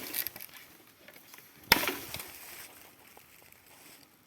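Two sharp cracks about two seconds apart, the first right at the start, each trailed by rustling, like snapping wood or brush.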